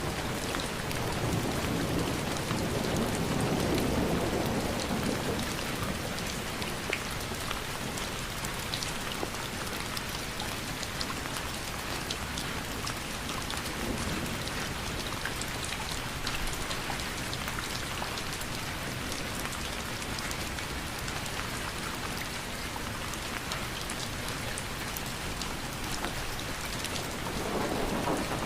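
Steady rain with many close drops pattering. A low rumble swells in the first few seconds and again near the end.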